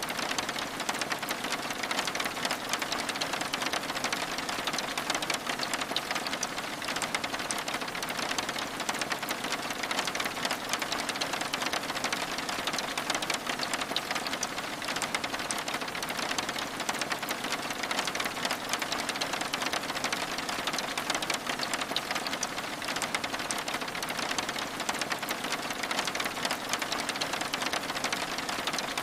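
Steady rain pattering on window glass, a dense even hiss of countless fine drop ticks that never lets up.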